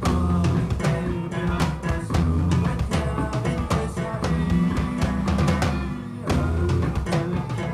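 A live band playing, with the drum kit and a heavy low bass line prominent. There is a brief drop in the music about six seconds in, then the band comes back in.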